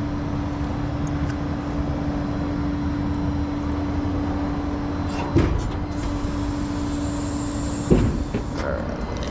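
Large truck engine idling with a steady low rumble and hum. Two sharp knocks come about five and eight seconds in, with a hiss between them.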